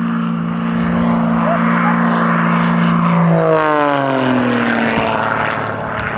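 Propeller airplane flying low past the listener, its engine tone loud and steady, then dropping sharply in pitch a little past halfway as it passes overhead and moves away.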